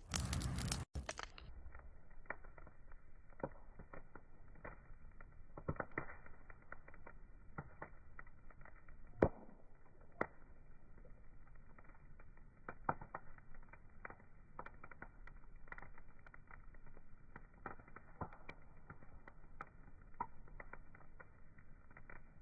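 Wood fire crackling: irregular small pops and snaps over a faint hiss, with one sharper pop about nine seconds in. In the first second the crackling is briefly louder and brighter.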